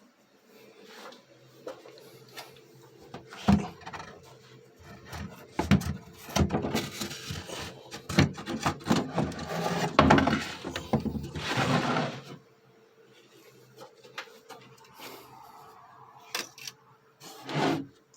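Someone climbing up into an attic: a busy run of wooden knocks, bumps and rubbing for several seconds, then quieter shuffling and a last thump near the end.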